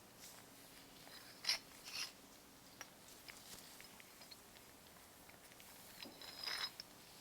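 Small metal parts of a restored World War I time fuse being handled: a few sharp light clicks and taps, with a short cluster of clicks and a brief metallic ring near the end.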